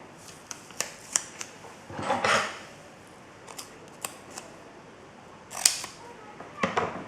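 Double-sided tape and cardstock being handled by hand: scattered small clicks and taps, with two short rustles, about two seconds in and again past five seconds.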